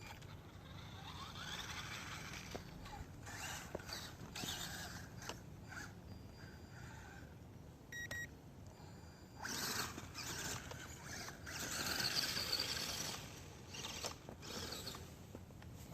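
Small electric RC rock crawler truck driving in bursts, its motor and gearbox whining, rising in pitch as it speeds up, and louder in two longer runs past the middle.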